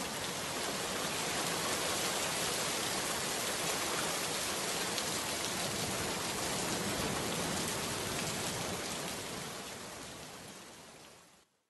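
Steady rain falling and splashing on a wet surface, an even hiss of many drops, fading away near the end.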